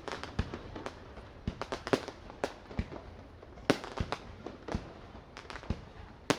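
Aerial fireworks bursting in a rapid, irregular series of sharp bangs and cracks, some with deep booms, the loudest near the end.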